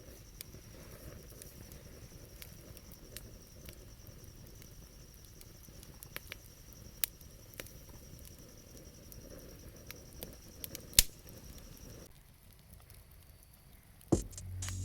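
Wood campfire crackling, with scattered sharp pops over a low steady hiss. A steady high thin tone runs behind it and stops about twelve seconds in.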